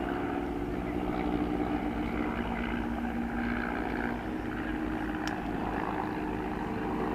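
Propeller-driven piston-engine aircraft in flight: a steady engine drone made of several tones that shift slowly in pitch.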